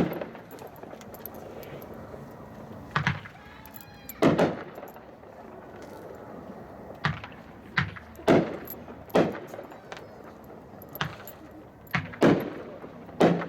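Genesis by Hot Shot, a 7-shot 350-gram consumer firework cake, firing: about ten sharp bangs of shots lifting and breaking, spaced irregularly, some with a brief echo.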